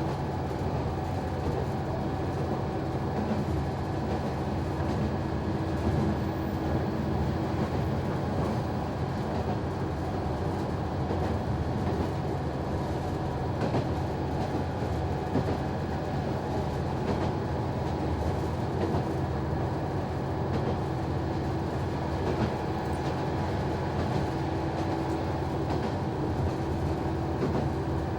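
Noto Railway NT100 diesel railcar running along the line, a steady drone of engine and running gear with a few faint clicks of the wheels over the rails.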